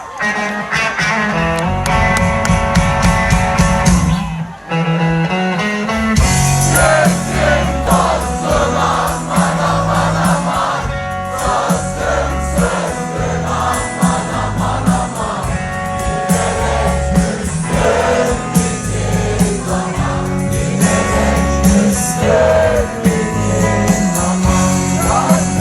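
Live Turkish rock band playing with singing and a heavy bass line. The music thins out briefly about four and a half seconds in, and the full band comes back in at about six seconds.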